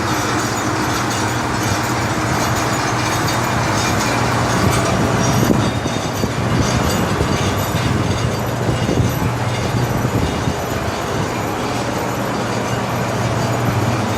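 Granmaq static coffee dryer running: a loud, steady mechanical drone with a constant low hum, the sound of its blower forcing air through the drying bed.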